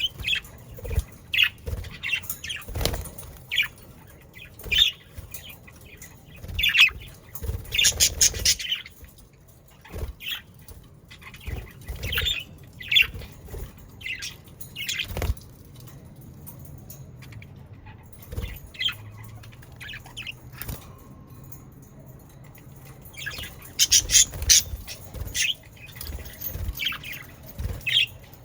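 A flock of budgerigars chirping and chattering in many short calls, with occasional wing flutters. The calls grow denser and louder in flurries about eight seconds in and again late on.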